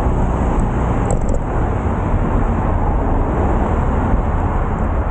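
Steady noise while cycling outdoors: a deep wind rumble on the microphone over the hiss of road traffic.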